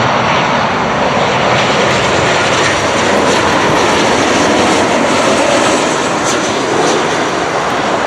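Loud, steady jet engine noise from an airliner close by on the runway or in the air.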